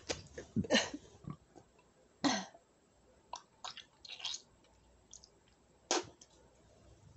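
A person eating close to the microphone: chewing with wet mouth clicks, broken by a few short breathy sounds.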